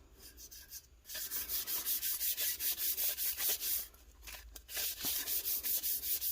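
Quick rhythmic rubbing strokes, about six a second, of a brush working mica powder onto a tumbler. The strokes pause for about a second near the middle.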